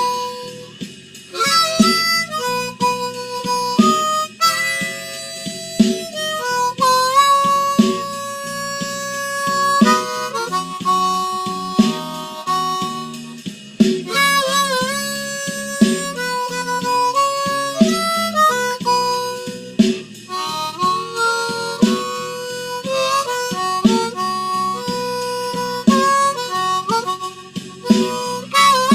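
Harmonica playing a slow blues lead with long held notes and several bent notes, over a drum and bass backing track.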